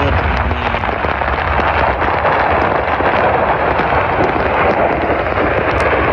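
Ammunition depot explosion and detonating munitions: a loud, steady, dense rumble with faint crackles running through it.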